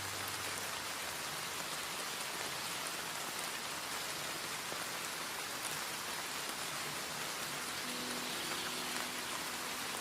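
Steady rain falling, an even hiss with no music over it for most of the stretch. Faint held musical notes come in near the end as the next song begins.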